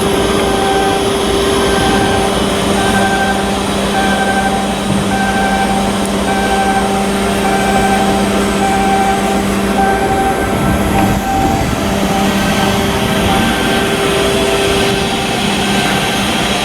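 Loud, steady machinery running with a constant hum, over which a warning beeper sounds repeatedly, a little under twice a second.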